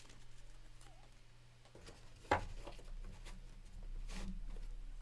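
Trading cards being handled and sorted on a table: faint rustling and light taps, with one sharp tap a little after two seconds in.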